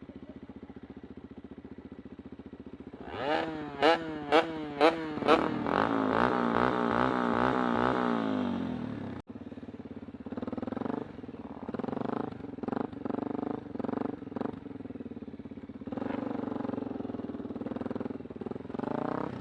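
Kawasaki Super Sherpa's 250 cc single-cylinder four-stroke engine running, then revved in four sharp blips about three to five seconds in. It is then held at higher revs with a wavering pitch, and after a sudden break it rises and falls again in short bursts.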